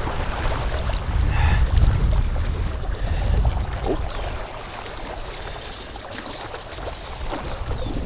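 Strong wind buffeting the microphone, a heavy low rumble over a steady rushing noise, with lake water washing at the bank.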